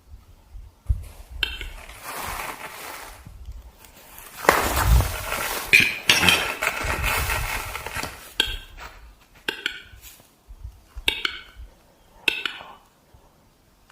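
Short bird calls repeated about five times, with a stretch of rustling and clinking in the middle.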